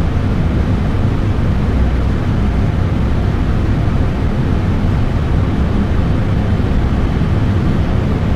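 Steady low rumble of airflow and engines inside a Boeing 787 Dreamliner's flight deck during the climb after takeoff.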